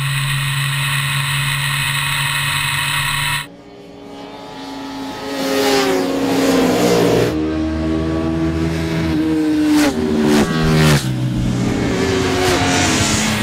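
Sport motorcycle engine, first holding a steady high note that cuts off suddenly. Then it revs up hard through the gears: the pitch climbs, drops at each upshift and climbs again, with several quick shifts near the end.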